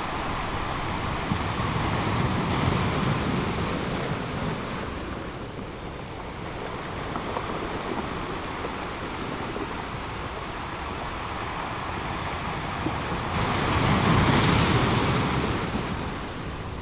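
Ocean surf washing in, a steady rush of waves that swells twice, the second surge, near the end, the loudest.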